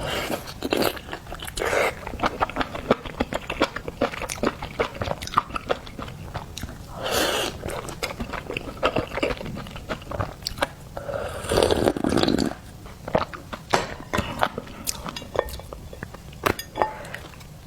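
Close-miked mukbang eating of seafood: steady wet chewing and biting with many sharp clicks and smacks, and two longer breathy sounds about seven and twelve seconds in.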